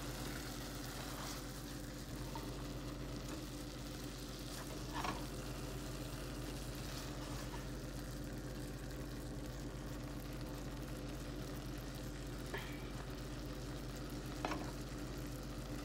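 Crumbled chicken sausage and bell peppers sizzling quietly in an enamelled pot as they are stirred with a spatula, with a few light scrapes and taps of the spatula against the pot.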